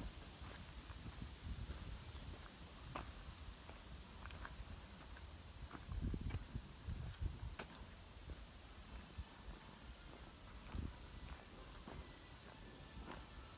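A steady, high-pitched insect chorus, with a walker's footsteps thudding irregularly underneath.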